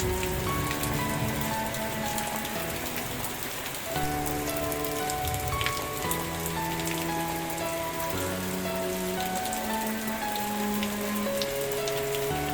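Steady rain falling, a dense patter with scattered individual drops, with soft sustained music notes changing slowly underneath.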